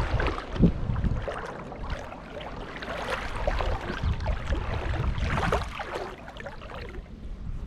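Water sloshing and splashing in a shallow creek, irregular and continuous, with a low wind rumble on the microphone; it eases off toward the end.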